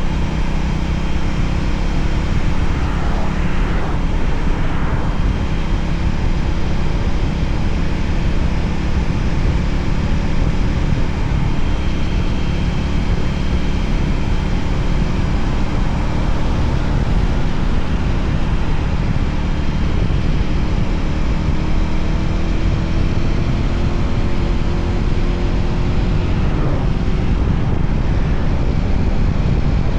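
Voge 300ACX motorcycle's single-cylinder engine running steadily while riding, its pitch drifting slightly up and down, under a constant rush of wind noise.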